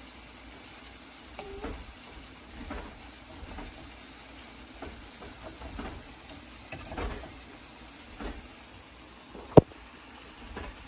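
Chicken breasts sizzling in a skillet with peppers and onions, being crisped at the end of cooking, while a fork scrapes and shifts them now and then. A single sharp knock near the end is the loudest sound.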